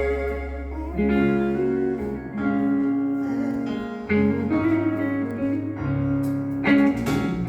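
Guitar playing slow held chords in an instrumental passage between sung lines, the chord changing every second or two.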